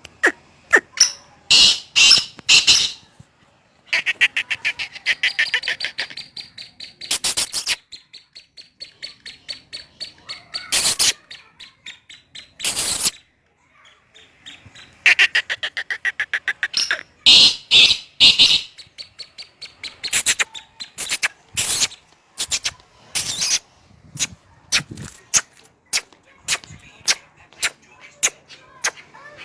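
Black francolin (kala teetar) calling: repeated harsh, clicking notes broken by fast chattering runs of rapid pulses, several times over.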